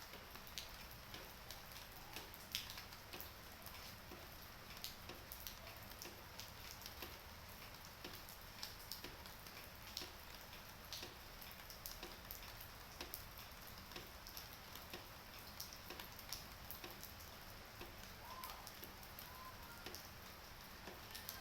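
Light rain falling: many irregular drop ticks over a faint steady hiss.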